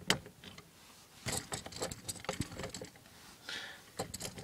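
Hard plastic toy being handled and set down: scattered sharp clicks and small rattles, bunched together between about one and two and a half seconds in.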